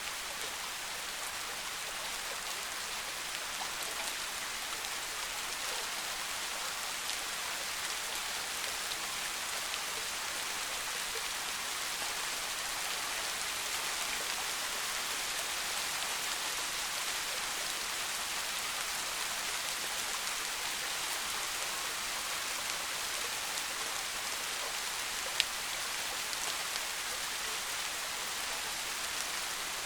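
Steady, soft rain falling in a dense, even patter, with one sharp tick of a drop about three-quarters of the way through.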